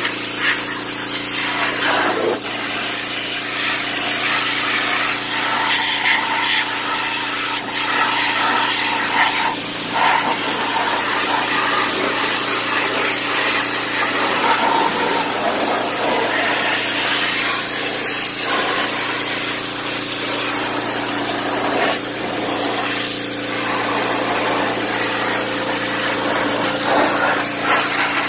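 Pressure washer running steadily, its motor humming under the hiss of the high-pressure water spray.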